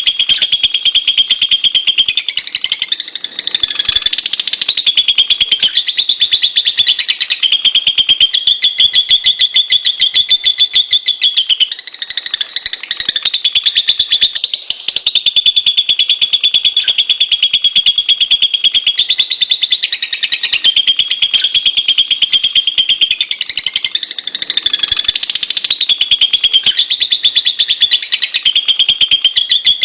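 Lovebird giving its long, unbroken chattering song: a rapid, continuous run of shrill high chirps that shifts in pitch every second or two without pausing.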